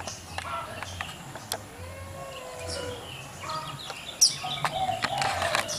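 Birds chirping and calling, with short scattered chirps, a brief high call about four seconds in, and a few faint clicks.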